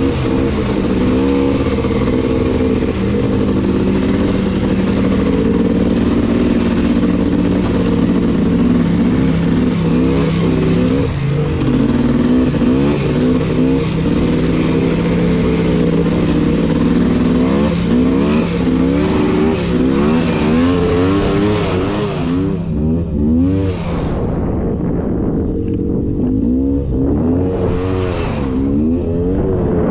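Polaris Scrambler 400 two-stroke ATV engine running on the trail, its revs rising and falling constantly with the throttle. Past the middle the hissing noise fades, and the engine revs up and down in several short surges.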